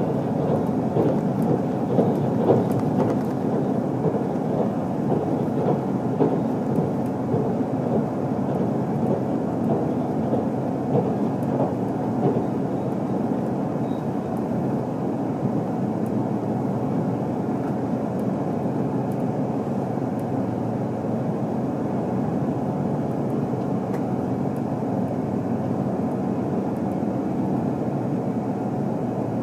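Running noise of an HC85 hybrid diesel express train heard from inside the passenger cabin: a steady rumble of wheels on rails, with clicks and knocks from the track over the first dozen seconds before it settles into an even drone.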